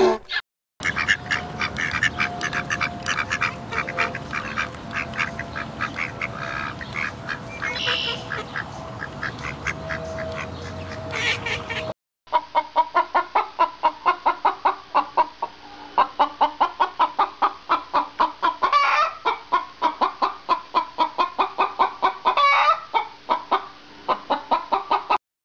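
Domestic fowl calling in two clips. First a flock gives many overlapping calls over a steady hum. Then, after a sudden cut about halfway, a rapid run of repeated calls comes about three a second.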